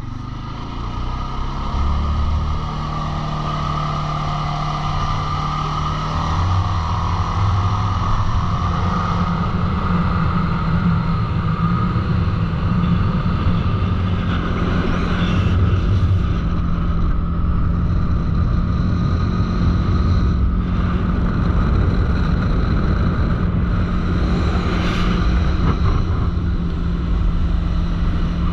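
CFMoto ATV engine running under way, its pitch climbing over the first several seconds and then holding steady.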